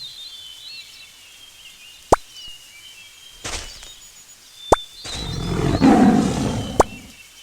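A wild animal's roar about five seconds in, rough and loud and lasting about two seconds, over birds chirping steadily. A few sharp clicks stand out, the first about two seconds in.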